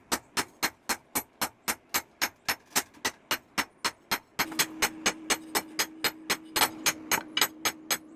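Hammer striking steel on an anvil in a fast, even rhythm of about four blows a second. A steady low tone joins in about halfway through.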